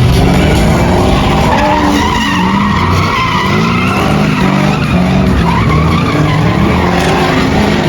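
Drift car's engine revving up and down with tyres skidding and squealing on the tarmac.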